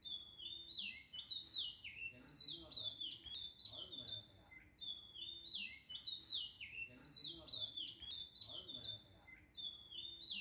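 Bird chirping: short high calls, each falling in pitch, in phrases that repeat every couple of seconds, over a faint steady high tone.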